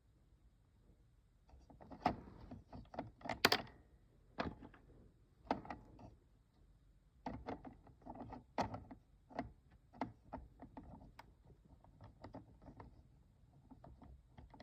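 Irregular small clicks, taps and knocks of the plastic parts of an Ocean Wonders toy aquarium being handled while its gears are worked on, busiest about two to four seconds in.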